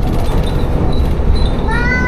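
Tsugaru Railway diesel railcar running, heard from inside the car as a steady low rumble. Glass wind chimes hung in the car tinkle faintly and repeatedly. Near the end comes a short high-pitched call that rises slightly.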